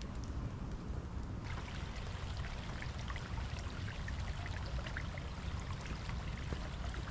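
Rain falling steadily, with many small scattered drop ticks that get denser about a second and a half in, over a steady low rumble.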